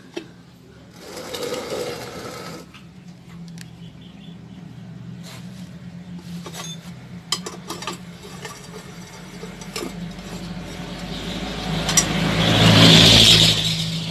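Traffic on the road alongside: a steady engine drone, with a vehicle passing close and loud near the end. Scattered small clicks of metal parts being handled and a cover being fitted.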